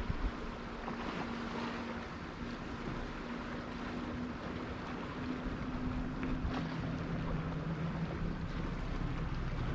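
Sea waves washing ashore in a steady wash of surf, with some wind on the microphone. Under it runs a faint, low, steady hum that drops in pitch about two-thirds of the way through.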